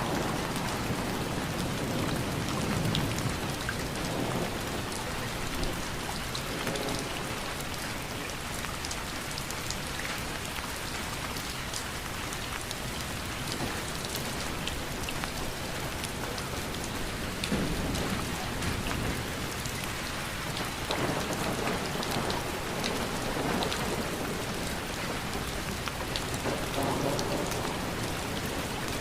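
Steady rain falling, an even hiss sprinkled with the ticks of individual drops striking a surface. Low rumbles swell up and fade a few times through it.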